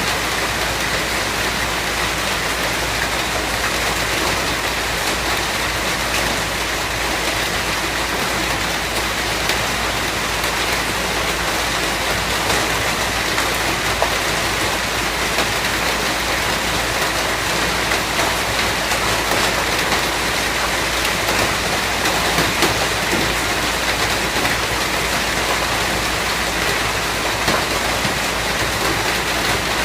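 Steady rain falling, an even hiss of many drops with small pattering ticks.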